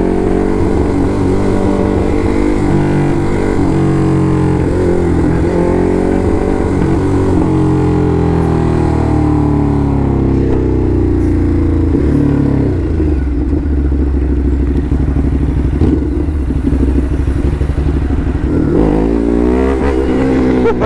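Ducati Hypermotard's L-twin engine under way, its pitch rising and falling as it speeds up and backs off. It slows and runs low and steady for several seconds around the middle, then picks up again near the end.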